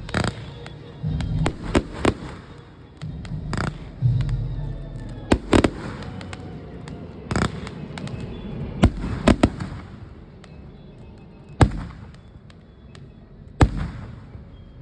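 Fireworks display: aerial shells bursting in sharp, irregular bangs, a dozen or so, some in quick pairs, with a low rumble between them. The bangs thin out toward the end.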